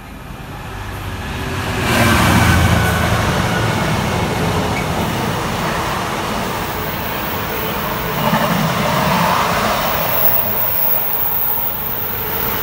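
Container freight train passing close by. The noise rises over the first two seconds to its loudest, with a deep rumble, then holds steady as the container wagons roll past on the rails.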